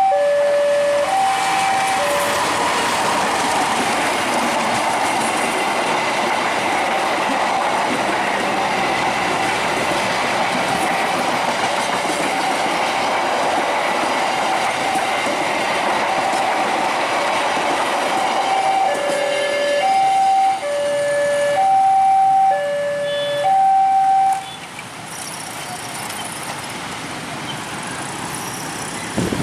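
A diesel-hauled passenger train passes at speed with a steady rumble and clatter of wheels on the rails. Under it, the level crossing's electronic warning alarm keeps sounding its alternating two-tone ding-dong. The alarm stands out once the train has gone by, then stops about 24 seconds in as the crossing clears.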